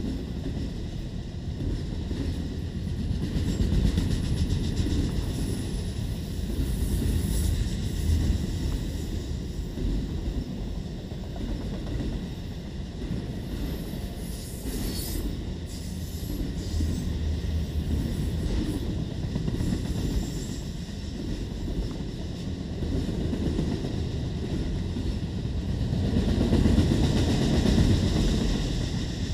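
Freight train of autorack cars rolling past close by: a steady low rumble of steel wheels on the rails, with faint high whines now and then. It swells louder near the end.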